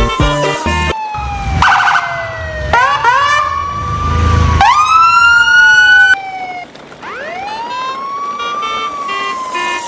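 Siren sound effect: a wailing tone that rises and then slowly falls, repeated, with quicker rising whoops and a short pulsing tone layered over it. A music track with a beat stops about a second in.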